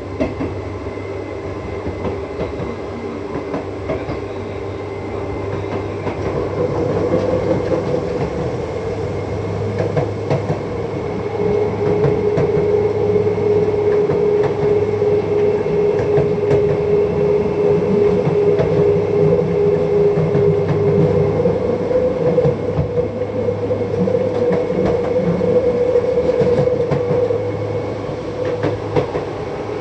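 Seibu 2000 series electric train running, heard from inside the car: a steady rumble of wheels on rail with a motor whine. It grows louder from about six seconds in and eases off near the end.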